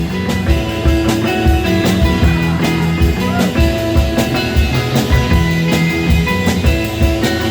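Live rock band playing an instrumental intro, with guitar notes held over a steady drum beat.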